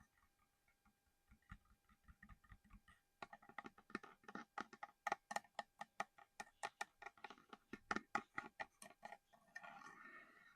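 Quick, close-up tapping on a small hard collectible item: a few soft knocks, then about six seconds of fast, even taps at roughly five or six a second, giving way near the end to a brief scratching rustle.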